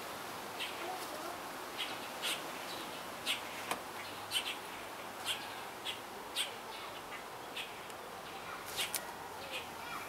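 Small birds chirping: short, high chirps, one or two a second, over a steady background hiss.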